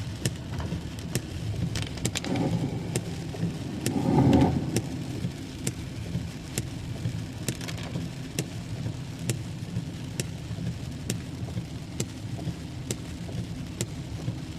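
Heavy rain hitting a moving car, sharp irregular drop impacts over the steady low rumble of the car on a wet road, with a louder swell about four seconds in.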